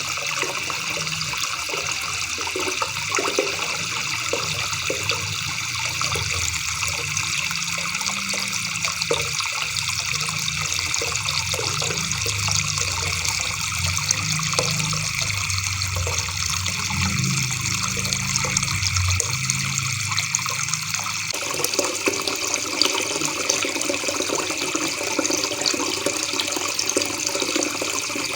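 River water babbling and rushing steadily. Its low rumble thins out about two-thirds of the way through.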